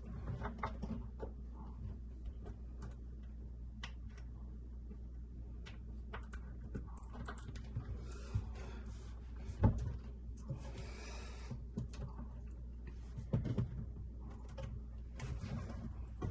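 Scattered light knocks, clicks and clunks of things being handled, like work on wooden cabinets, over a low steady hum; the sharpest knocks come near the middle and a few seconds later, with a brief rustle in between.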